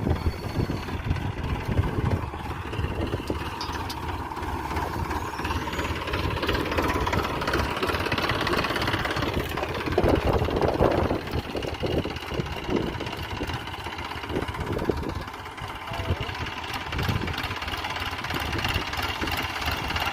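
Tractor engine running steadily, briefly louder about halfway through.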